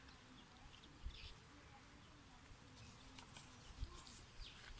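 Near silence: faint room tone with a few faint, short, high chirps.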